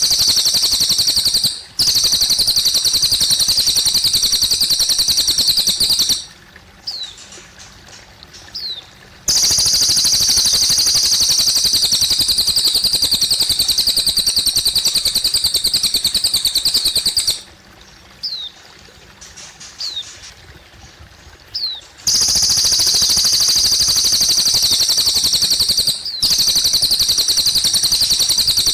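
A cililin songbird singing long, very rapid, high-pitched trills, each lasting several seconds, separated by short pauses with a few quick falling chirps. Trickling water runs faintly underneath.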